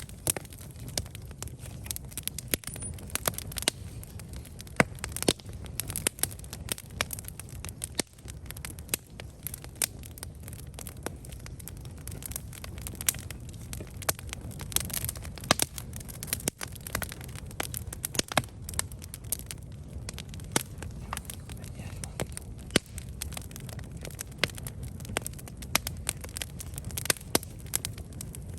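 Campfire burning with frequent sharp crackles and pops from the wood, over a steady low rumble of the flames.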